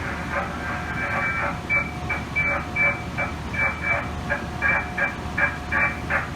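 Muffled, narrow-band voice exchange over the train radio from the driver's cab, choppy and indistinct, over a low steady hum inside a stopped train carriage.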